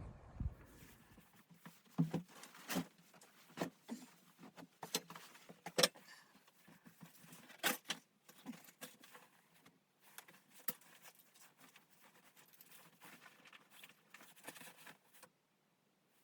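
A series of irregular light clicks and knocks, a few sharper ones among them, ending about a second before the end.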